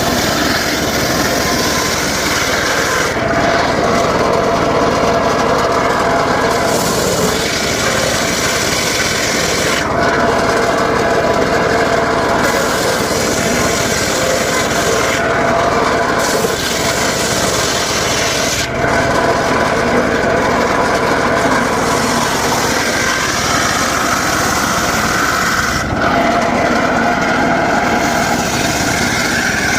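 Engine-driven circular saw blade cutting through dry teak wood over a steady motor drone. The hissing cut comes and goes every few seconds as the blade passes in and out of the wood.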